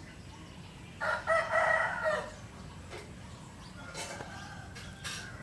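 A single loud bird call lasting about a second, starting about a second in, followed by a few faint clicks.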